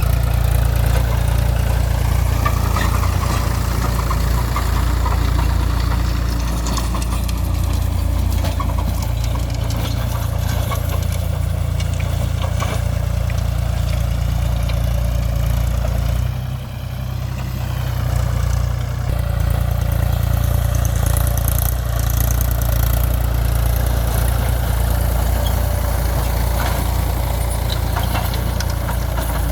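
Mahindra 275 DI TU tractor's three-cylinder diesel engine running steadily, with a brief drop in level about sixteen seconds in.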